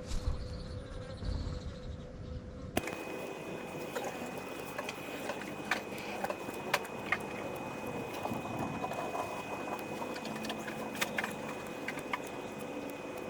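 Birds pecking at feed: many small irregular taps and clicks over a steady hiss, with a steady high thin tone throughout. The taps begin about three seconds in, after a low rumble.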